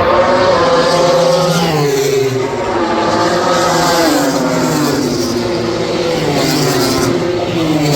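A group of MotoGP four-cylinder race bikes passing at speed, each engine note falling in pitch as the bikes go by one after another.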